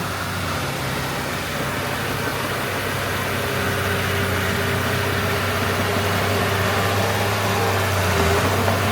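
Heavy-equipment diesel engine running steadily at a constant speed.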